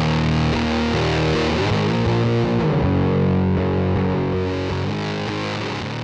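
Electric guitar played through a Big Muff-style fuzz pedal, heavily distorted sustained chords changing every second or so, fading out near the end.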